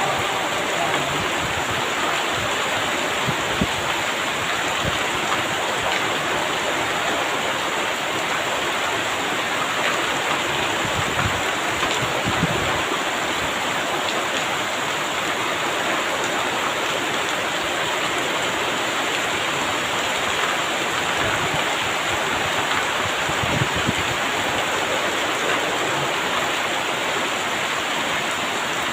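Heavy rain falling steadily, a dense even hiss of downpour with a few faint low thuds.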